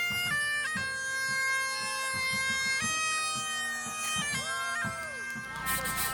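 Bagpipes playing a tune over a steady drone. About five and a half seconds in, the pipes stop and other music carries on.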